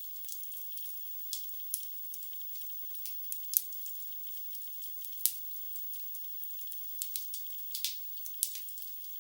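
Wood fire crackling in a fireplace: a steady hiss with irregular sharp pops and snaps from the burning logs, the loudest pops about three and a half and five seconds in. The sound is thin and high, with no low rumble.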